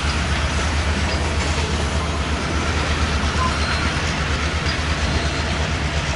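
Grain train's covered hopper cars rolling past, a steady noise of steel wheels running on the rails.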